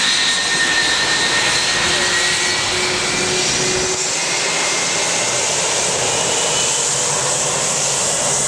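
Boeing 757's jet engines running close by: a loud, steady rushing noise with high whining tones that drift slowly in pitch.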